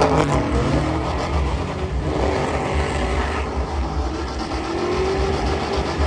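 Truck engine running loudly and revving, with a pitch that rises about five seconds in.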